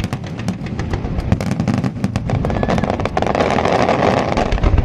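Aerial fireworks crackling: a dense run of sharp pops and snaps, with a rushing hiss swelling about three seconds in and a deep boom near the end.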